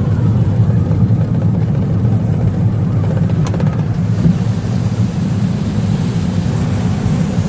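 Roller-coaster train rolling along the track, a steady low rumble from the wheels, with a single sharp click about three and a half seconds in.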